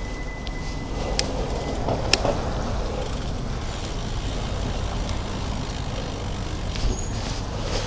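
Steady wind and road noise from riding a bicycle, picked up by a camera mounted on the bike. A faint high steady tone stops about two seconds in, and there are two sharp clicks about a second apart.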